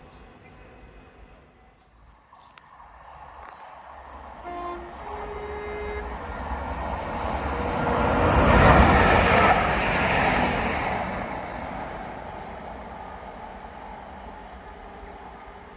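A train approaching and passing by, its noise swelling to a peak about nine seconds in and then fading away. About four and a half seconds in, it sounds a two-note horn, a short lower note followed by a longer higher one.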